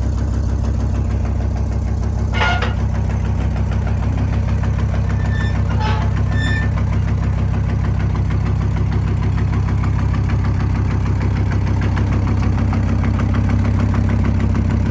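An old farm truck's engine idling steadily, with a few short high chirps about two and a half and six seconds in.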